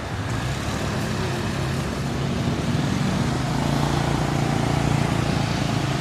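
Roadside traffic noise with a motor vehicle's engine running close by, its low hum growing louder about halfway through as it nears.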